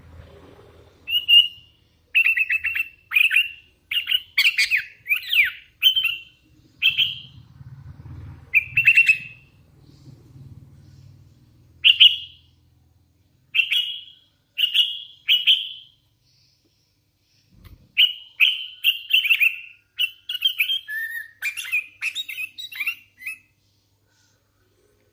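Young hand-fed sooty-headed bulbul (kutilang) calling: short chirping calls repeated every second or so, with a gap of about two seconds midway, then a quicker run of calls.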